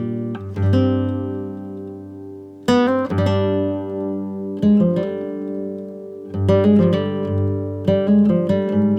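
Acoustic guitar music: plucked chords and notes that ring out and fade, with a fresh strum every second or two.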